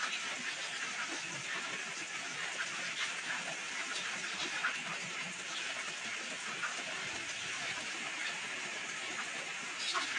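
Heavy rain falling steadily, a constant hiss with many small drops ticking through it.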